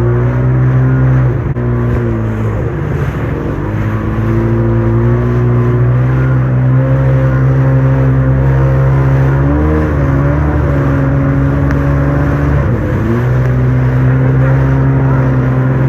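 Jet ski engine running on the water, holding a steady pitch that dips and picks up again a few times as the throttle is eased and reopened.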